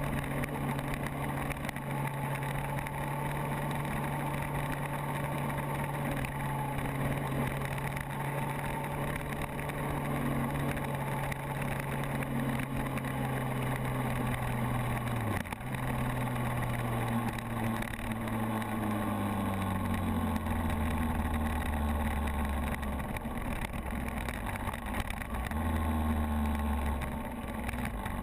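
Kawasaki motorcycle engine running under way, its note sagging slowly, with a brief sharp dip about halfway (a gear change), then falling steadily lower through the second half as the bike slows. Steady wind hiss runs underneath.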